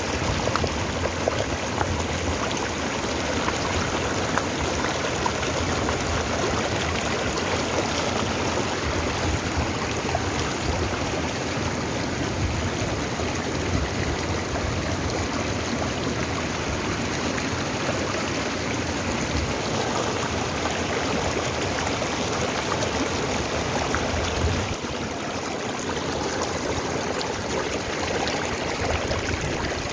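Mountain stream flowing steadily over rocks, a constant rush of water that drops a little in level about 25 seconds in.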